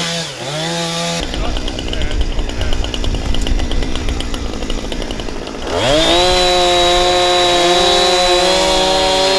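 Chainsaw running. About a second in it cuts into wood with a noisier, uneven sound, and a little before six seconds it rises quickly in pitch to a steady high whine at full throttle.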